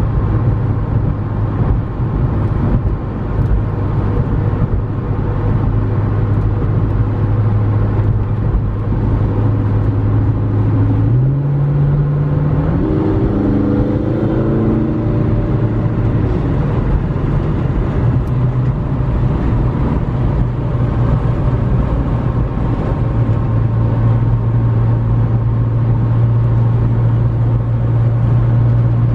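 2015 McLaren 650S Spyder's twin-turbo V8 running steadily on the road, with one brief rise in revs about a third of the way through, climbing in pitch for a few seconds before settling back to a steady cruise.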